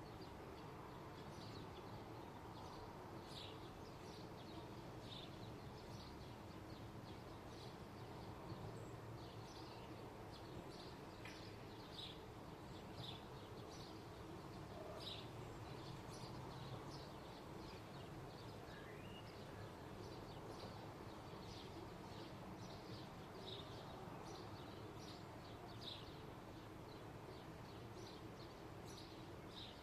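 Faint birds chirping, many short high notes scattered throughout, over a steady low hum of distant background noise.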